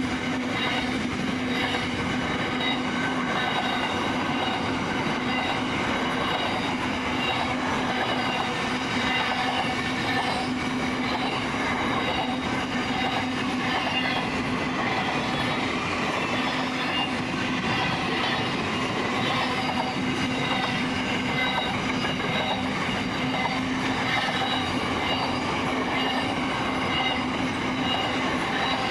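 Container freight train wagons rolling steadily past on steel rails, with a continuous squeal from the wheels over the rumble.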